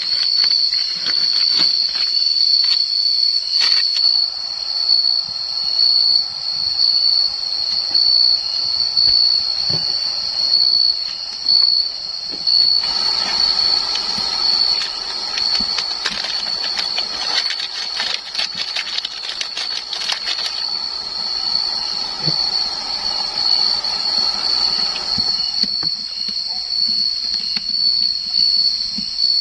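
An insect's steady, high-pitched, unbroken trill, with a louder spell of noisy patter and taps from about 13 to 25 seconds in.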